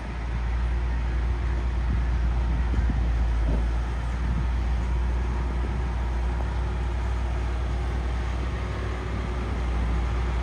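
Heavy diesel earthmoving machinery running steadily, a deep low engine sound under mechanical noise, growing louder over the first second or two.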